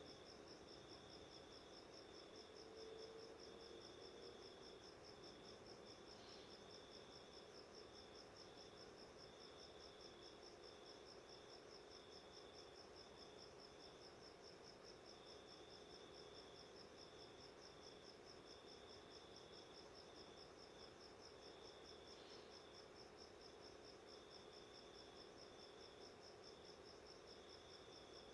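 Faint crickets chirping: one in a steady, fast, even pulse throughout, another trilling in broken stretches just below it.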